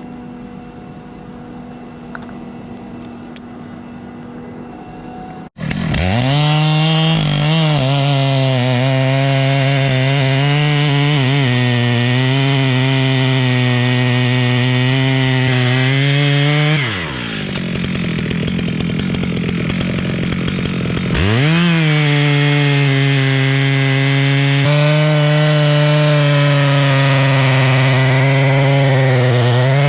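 Milwaukee battery-powered top-handle chainsaw starting up about five seconds in and running at full speed through a cut, its pitch wavering under load. Near the two-thirds mark it winds down for a few seconds, then speeds back up and cuts on. Before it starts, a quieter steady engine hum is heard.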